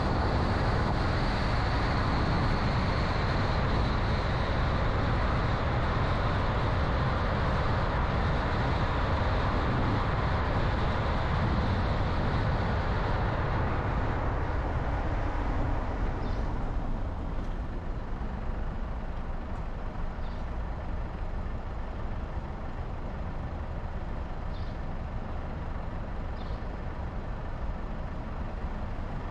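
Steady road and tyre noise with a low engine hum from a car being driven; the noise gets somewhat quieter about halfway through.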